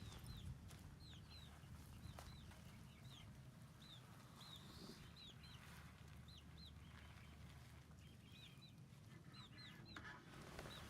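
Baby chicks peeping: faint, high-pitched, short falling peeps repeated at an irregular pace.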